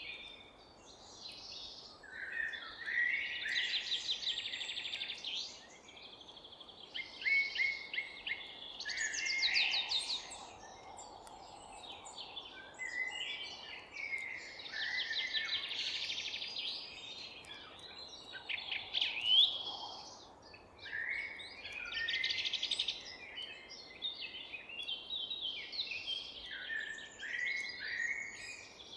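Forest songbirds singing: short phrases of fast trills and chirps, one after another every few seconds with brief pauses, over a faint steady background hiss.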